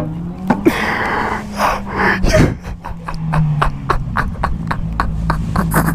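Breathy, snorting laughter and gasps over a steady low engine hum.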